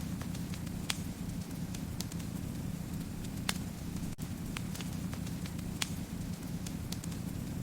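Fireplace fire crackling: a steady low rumble of burning with irregular sharp pops and snaps, a few louder ones standing out, about one every second or two.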